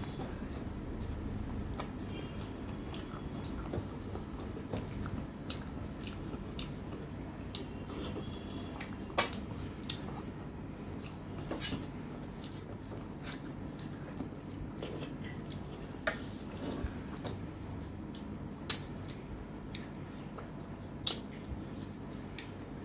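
Close-miked chewing of rice and mutton curry, with wet, squishy mouth sounds and scattered short sharp clicks. Fingers gather food from a steel plate over a steady low background hum.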